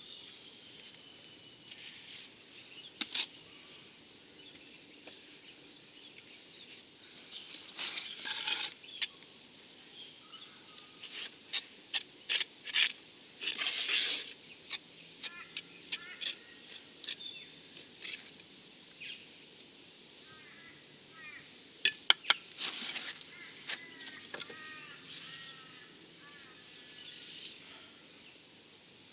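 Sharp clicks and short scrapes of hand tools working wet cement render, in irregular bursts, with clusters of quick knocks in the middle. Birds chirp in repeated short calls through the second half.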